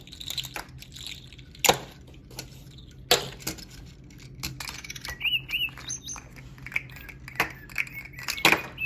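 Toys being handled, with several sharp clicks and knocks. From about halfway on come short, high bird-like chirps: the pet bird's singing.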